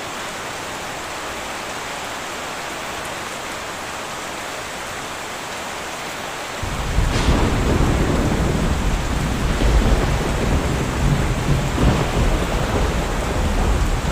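Steady heavy rain drumming on a tin roof. About halfway through, thunder breaks in with a crack and a loud, deep rumble that carries on over the rain.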